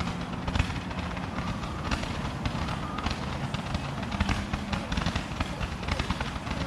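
Backyard consumer fireworks going off: a run of quick pops and crackles over a steady low rumble.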